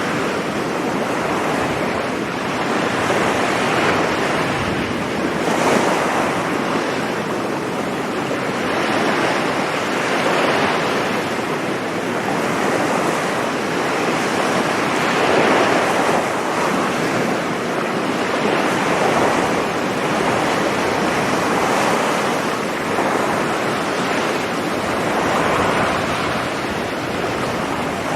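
Sea surf washing onto a beach: a continuous rushing wash that swells and eases every four to five seconds as waves break.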